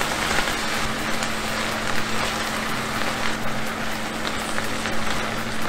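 Sliced onions and carrots sizzling in oil in a Staub enamelled cast-iron cocotte while being stirred with a spatula, sautéed until the onions turn translucent. A steady low hum runs underneath.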